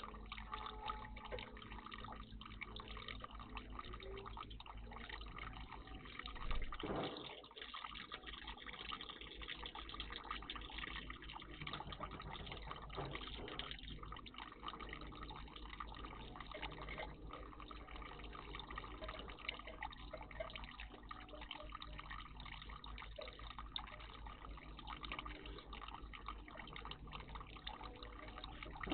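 Water steadily trickling and dripping in a garden bird bath, with one louder burst of noise about six and a half seconds in.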